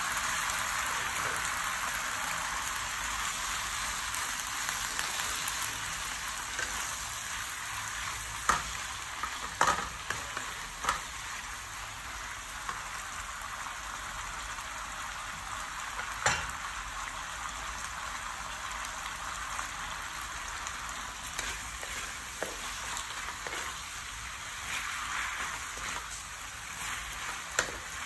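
Fresh leafy greens sizzling as they hit hot sauce in a metal pan, the sizzle loudest at first and then settling. A few sharp knocks of a wooden spatula against the pan, and stirring near the end.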